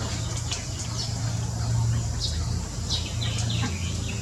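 Birds chirping over and over, short high chirps that fall in pitch, over a steady low hum.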